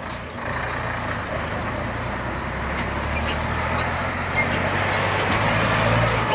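Scania R420 truck's diesel engine running through a straight-through exhaust, a steady low drone that slowly grows louder.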